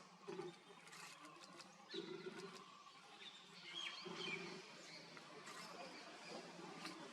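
Faint bird chirps and short whistles over outdoor ambience, with a low hum that comes and goes a few times.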